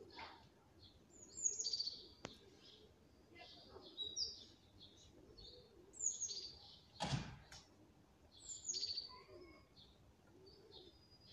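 Small birds chirping, short falling phrases repeated every two to three seconds, with a single dull thump about seven seconds in.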